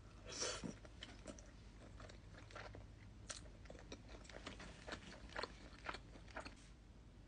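Close-miked chewing of chicken and rigatoni pasta: soft, irregular mouth clicks and smacks, with a louder burst about half a second in.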